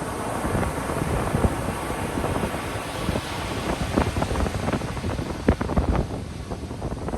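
Ocean surf washing on a beach as a steady rushing noise, with wind buffeting the microphone in sharp thumps about halfway through.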